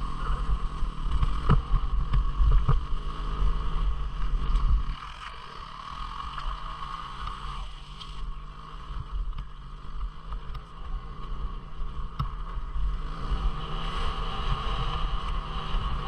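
A 250 cc single-cylinder dual-sport motorcycle running on a trail, heard through a mounted action camera's microphone with wind rumble over it. A heavy low rumble eases about five seconds in, and scattered sharp knocks come from the bike over rough ground.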